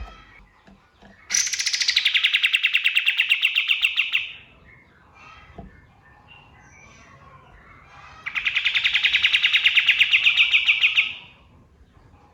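Kapas tembak (a triller) singing two long, rapid trills of about three seconds each, the first starting about a second in and the second near the middle. Faint chirps fill the gaps between them.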